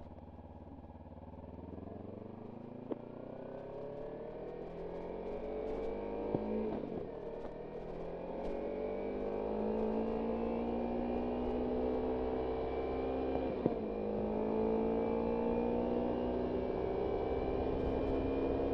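Kawasaki Ninja 300's parallel-twin engine accelerating through the gears, its pitch climbing steadily and the sound growing louder. There are two upshifts, about a third and about two thirds of the way in, each marked by a short click and a reset in pitch.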